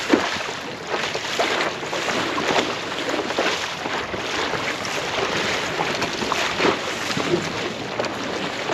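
Water splashing and slapping against a kayak's hull as it moves across open sea, with wind buffeting the microphone.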